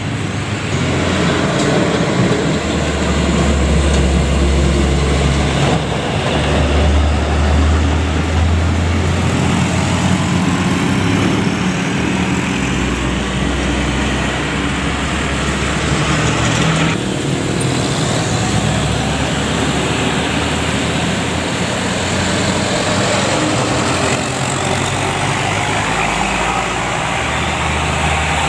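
Heavy-vehicle traffic: a large diesel engine running close by with a deep drone that rises and falls in strength, over road noise. The sound changes abruptly about 17 seconds in.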